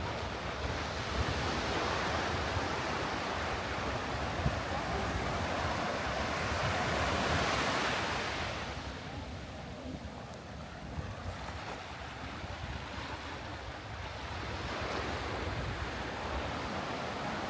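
Sea waves washing up the beach, one surge building and peaking about halfway through before easing, then another building near the end, with wind buffeting the microphone.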